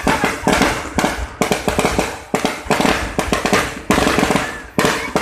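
Fireworks going off in a dense, rapid crackle of many small bangs. A fresh volley starts suddenly about every one to one and a half seconds.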